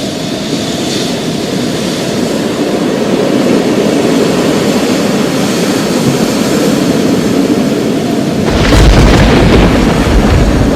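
Thunder rolling in a long low rumble, then a louder thunderclap breaking suddenly about eight and a half seconds in, followed by a deeper rumble.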